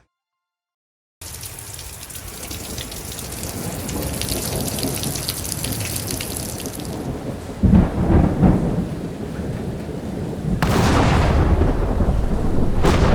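Severe storm with heavy rain and strong wind, starting about a second in as a steady hiss that builds. Heavy low rumbles come about eight seconds in, and a louder surge of wind and rain follows from about eleven seconds on.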